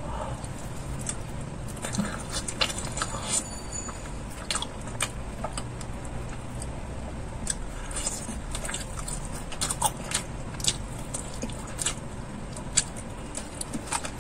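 Eating sounds: biting into and chewing a fried chicken leg piece dipped in cheesy dip, with irregular sharp clicks and crackles of the fried crust throughout.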